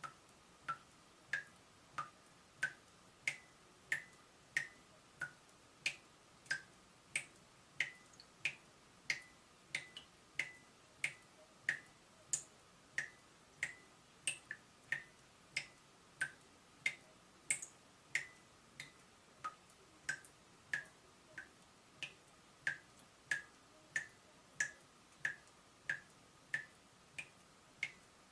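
Leaking tap dripping steadily, one short pinging drop about every two-thirds of a second, from a dripping-tap sound effect.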